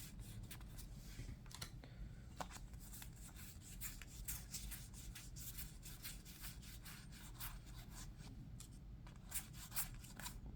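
Trading cards being handled and flipped through by hand: many small, quick rustles and clicks of card stock sliding and tapping, with a faint steady hum underneath.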